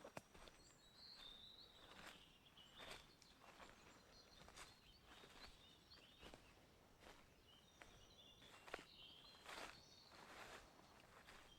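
Quiet, soft footsteps walking along a forest path, a step about every second, with faint high bird chirps now and then.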